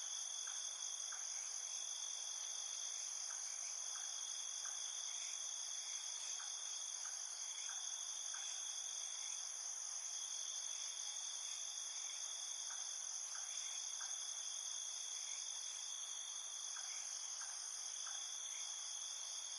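Night chorus of field crickets: a steady high-pitched trilling with a second, lower band that swells and fades every second or two.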